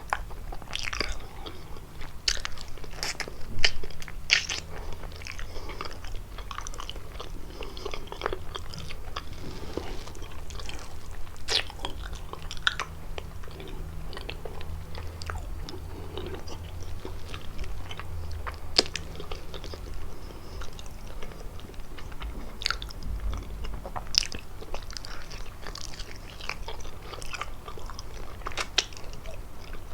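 Close-miked biting and chewing of kalaj pastry, with sharp, irregular crackles as it is bitten and chewed.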